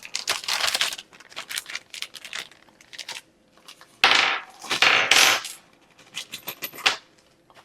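Small hard parts of a bird feeder kit clicking and clattering as they are handled, with a louder stretch of rustling noise about four seconds in.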